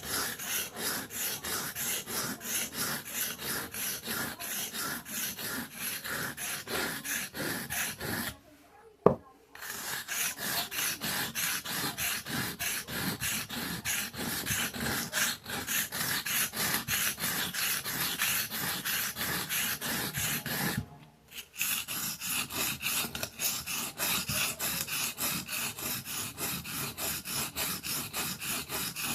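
Steel knife blade being stroked back and forth on a wet whetstone, rapid even scraping strokes. The strokes stop twice, about 8 and 21 seconds in, with a sharp click during the first stop.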